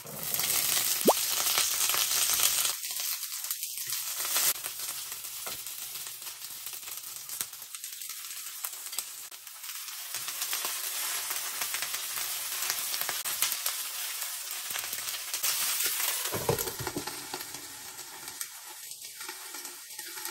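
Bok choy sizzling in hot oil in a nonstick frying pan. The sizzle is loudest for the first few seconds as the stems go in, then settles, with a few sharp clicks of a utensil stirring the greens.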